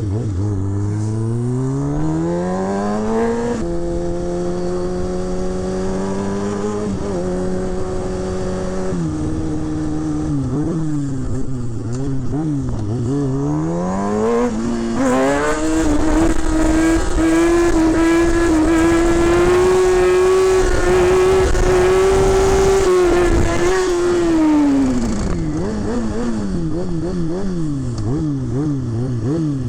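Kawasaki ZX-6R 636's inline-four engine under hard acceleration through the gears. The revs climb and drop back at each upshift, then rise steeply and are held high for several seconds before rolling off near the end.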